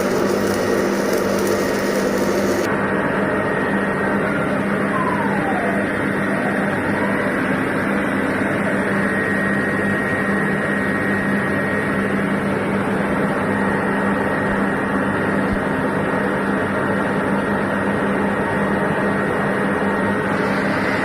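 Steady machine noise with a low electrical hum and a thin high tone, unbroken throughout, with a brief falling whine about five seconds in.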